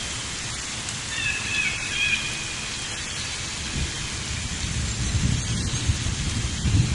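Steady rain with low thunder rumbling, the rumble building toward the end.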